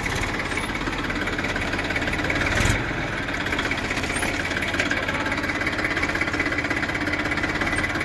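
Tractor diesel engine running steadily with a rapid, even chug, swelling briefly louder about three seconds in.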